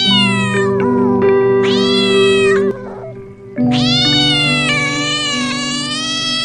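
Cat meowing in long, drawn-out calls: the end of one, a shorter one, then a long meow of about three seconds, each sliding in pitch, over background music with steady held notes.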